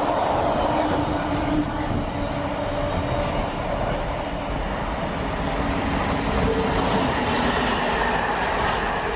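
Freight train rolling through the station: a steady, loud rumble of wagon wheels on the rails, with a few thin steady tones over it.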